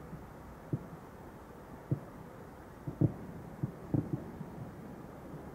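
Aerial fireworks shells going off in the distance: a series of about seven low, dull thuds at uneven intervals, the loudest about three seconds in.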